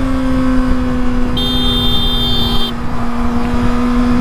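Motorcycle riding at steady speed: a constant engine drone under heavy wind rumble on the mic. About a second and a half in, a high-pitched tone sounds for about a second and stops.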